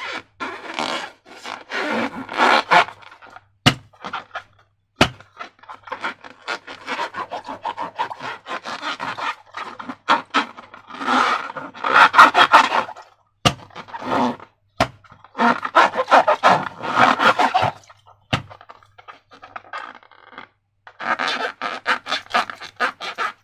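Slime and rubber balloons being handled: bursts of scraping, crinkling noise, with several short sharp snaps along the way.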